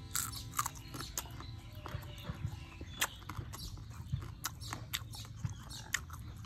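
Close-up chewing of crisp battered fried frog and crab: an irregular run of sharp crunches and wet mouth clicks, several a second.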